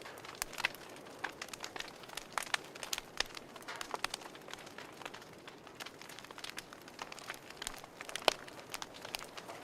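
Wood fire crackling: irregular sharp pops and snaps over a steady hiss, with one loud pop about eight seconds in.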